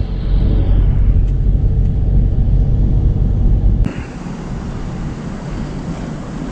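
Low vehicle rumble, strongest at the bottom of the range. About four seconds in it cuts off abruptly, giving way to a quieter, hissier background.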